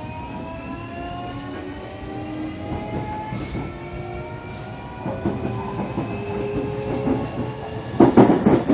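JR Kyushu 305 series electric train heard from inside a motor car, its VVVF inverter and traction motors whining in several tones that rise steadily as the train accelerates, over the rumble of the wheels. About eight seconds in comes a loud burst of clatter from the wheels over rail joints.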